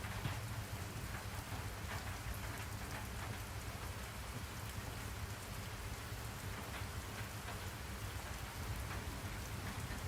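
Steady rain falling: a dense, even hiss of rain with scattered drop pattering, over a constant low rumble.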